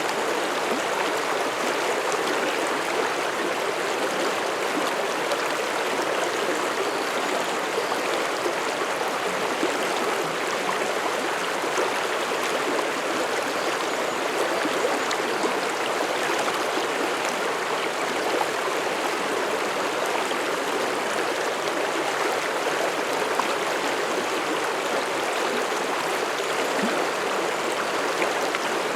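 Mountain stream flowing over rocks, a steady rushing and babbling of water.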